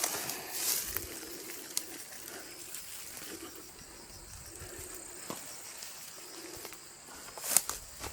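A dove cooing, a low soft call repeated every second or so, with scattered sharp clicks and rustles, the loudest shortly before the end.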